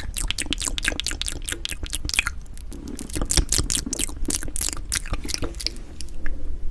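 Close-miked eating sounds: a person chewing food with rapid, wet mouth clicks and smacks, several a second.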